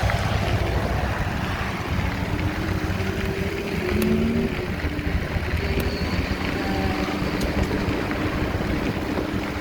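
Steady rumble of wind buffeting the microphone during a bike ride along a trail, with a faint hum that shifts in pitch now and then.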